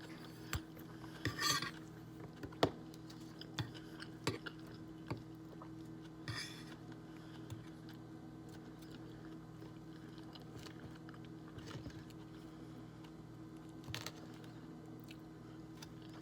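Eating sounds: cutlery clicking and scraping on a plate, with chewing between, as scattered light clicks and two short scrapes over a faint steady hum.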